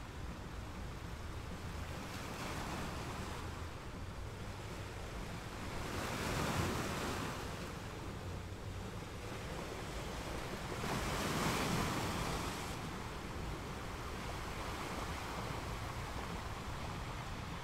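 Sea waves washing onto the shore, a steady rush with two larger waves breaking, one about a third of the way in and one about two-thirds of the way in.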